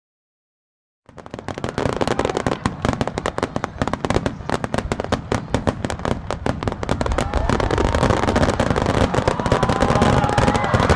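Aerial fireworks crackling: a dense, rapid run of many small sharp pops, starting about a second in. From about seven seconds, sliding tones rise and fall over the crackle.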